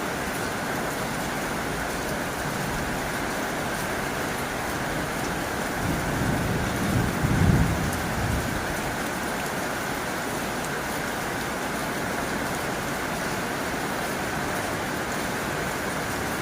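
Heavy rain falling steadily on a tin roof, an even hiss of drops on the metal. About halfway through, a low rumble of distant thunder swells and fades.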